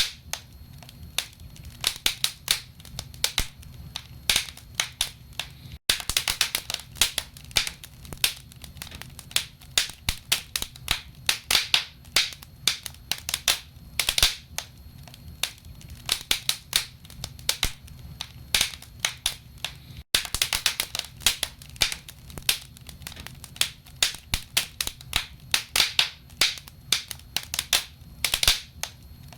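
Wood burning in a fireplace: logs crackling and popping in dense, irregular snaps over a steady low rumble of the fire. The sound cuts out for an instant twice, near 6 and 20 seconds in.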